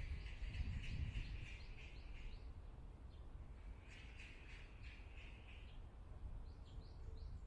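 Birds calling in woodland: two harsh, rapid chattering calls about two seconds long each, one at the start and one about four seconds in, then a few short high chirps near the end.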